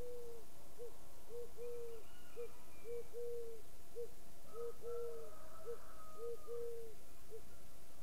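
A bird giving a steady run of low hoots, a long note then two short ones, repeated over and over at about one phrase every one and a half seconds. Faint higher calls from other birds sound over it.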